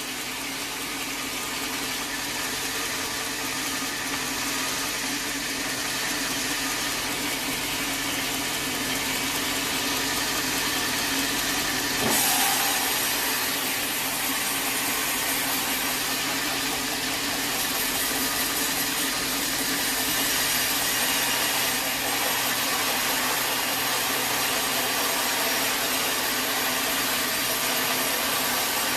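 Sawmill machinery running steadily, a constant motor drone with hiss, broken once by a sharp knock about twelve seconds in.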